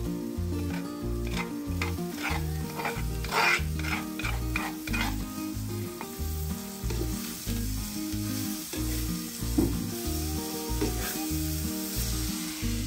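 Winged beans sizzling as they fry in coconut oil in a clay pot. In the first five seconds a wooden spoon scrapes and knocks against a clay bowl in a quick series of strokes, then it stirs the pot. Soft background music with low notes plays underneath.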